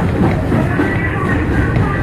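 Rumble of an R179 subway car running, heard from inside the car, with a wavering high tone over it.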